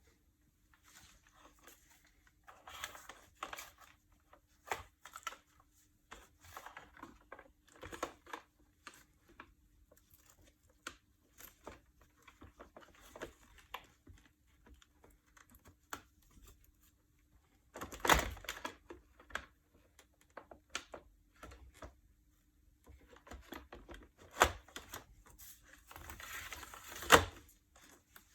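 Handling noises: scattered clicks, knocks and short rustling scrapes of parts being handled, with louder bursts about two-thirds of the way in and again near the end, over a faint steady hum.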